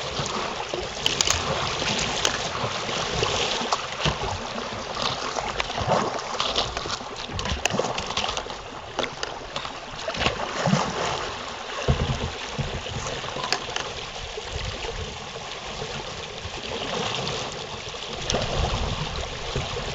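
Creek water rushing and gurgling, with irregular splashing as a kayak is paddled hard against the current.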